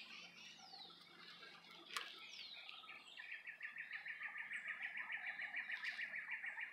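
Birds chirping, with short falling chirps, a single sharp click about two seconds in, and a fast, even trill of about nine notes a second through the second half.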